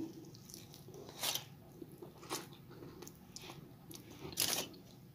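Close-up chewing and biting on pieces of boiled chicken, with a few short crunches: one about a second in, another past two seconds, and the strongest past four seconds.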